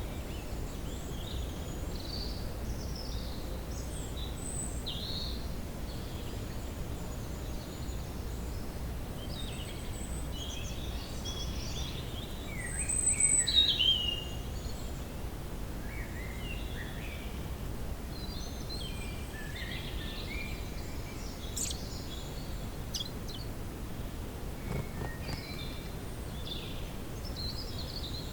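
Woodland ambience: several birds calling and chirping on and off over a steady low background rumble, with a louder flurry of calls about halfway through.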